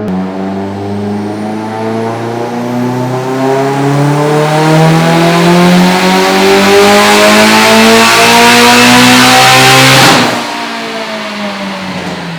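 Mitsubishi Lancer Evolution X's turbocharged 2.0-litre four-cylinder, fitted with a Precision 6466 twin-scroll turbo kit and full exhaust, making a wide-open-throttle dyno pull on pump gas: the engine note climbs steadily in pitch for about ten seconds with turbo and exhaust hiss growing louder. Then the throttle closes abruptly with a short rush of noise, and the revs fall away.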